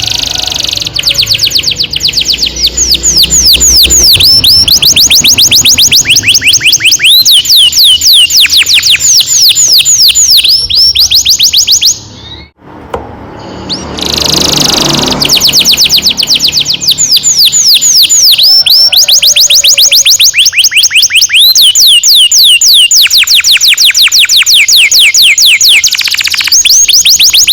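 Domestic canary singing a long, loud rolling song: high whistled notes sweeping downward in quick succession, several a second. There is a short break about twelve seconds in before the roll resumes.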